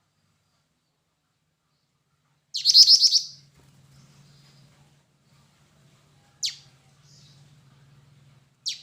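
Black-winged flycatcher-shrike (jingjing batu) calling: a loud, rapid trill of about seven high notes, followed by two short, sharp notes that fall steeply in pitch a couple of seconds apart. A faint low hum sits underneath.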